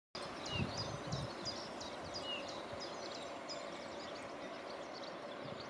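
Small birds chirping and calling repeatedly, with occasional low rumbles of wind on the microphone.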